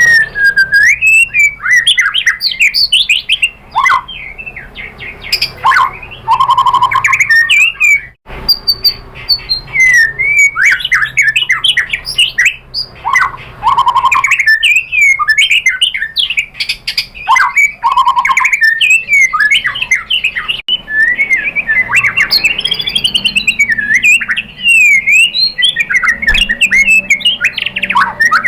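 White-rumped shama (murai batu) singing loud and non-stop: a fast, ever-changing run of whistles, chips and trills packed with borrowed song material (isian). It is the excited, full-repertoire song used as a provocation call to get other shamas to answer. There is a brief break about eight seconds in.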